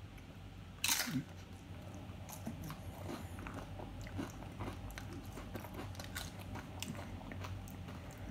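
A loud crunch as a tortilla chip from a plate of chicken nachos is bitten about a second in, followed by steady crunchy chewing with small irregular crackles.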